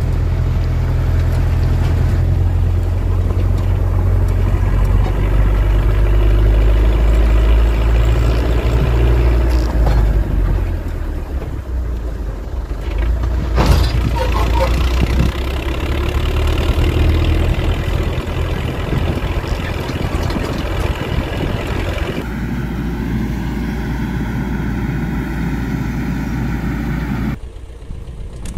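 Diesel engine of farm machinery running steadily under load, its low hum changing abruptly twice as the clips are cut together. A single sharp click comes about halfway through.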